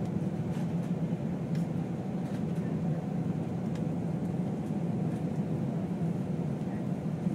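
Airbus A320 cabin noise in flight: a steady low drone of the engines and the airflow, heaviest in the bass, with a few faint ticks.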